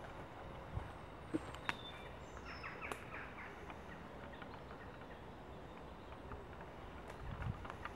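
Quiet outdoor ambience with a brief burst of bird calls, a short whistled note followed by a quick run of chirps about two to three seconds in, and a few soft knocks of footsteps.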